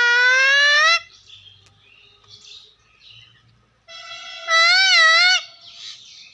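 Green ringneck parrot whistling twice: a long, slightly rising whistle, then about four seconds later a second long whistle with a wavering pitch.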